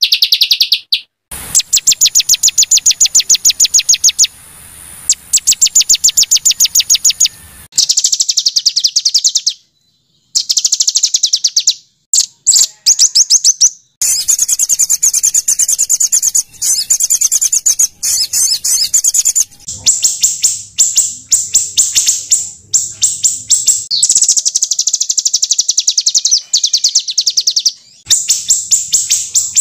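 A small songbird's masteran song made of harsh rapid-fire 'tembakan' phrases, used to train white-rumped shamas: loud runs of many quick, evenly repeated high chirps, each run lasting a few seconds, with brief pauses between them.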